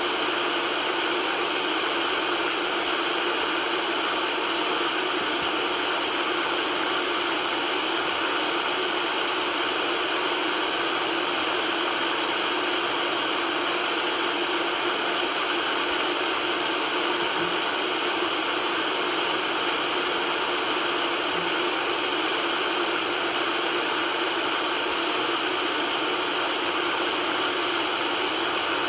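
Steady white noise: an even, unchanging hiss with almost no bass.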